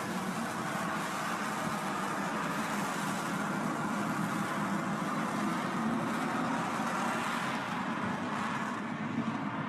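Steady rushing aircraft noise, even throughout with no distinct events.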